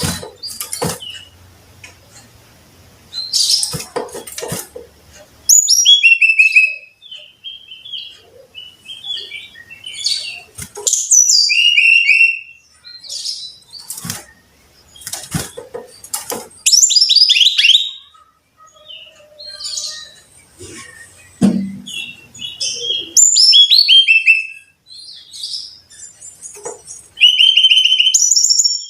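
Brown-chested jungle flycatcher singing: short phrases of quick, high whistled notes tumbling downward in pitch, repeated every few seconds, with scattered clicks between phrases.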